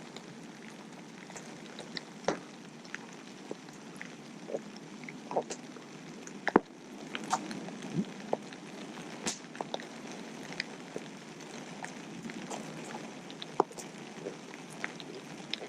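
Campfire crackling: irregular sharp pops and snaps over a steady low hiss.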